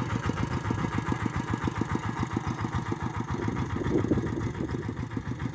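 Tractor engine running steadily while pulling a plough through the soil, with a fast, even engine beat.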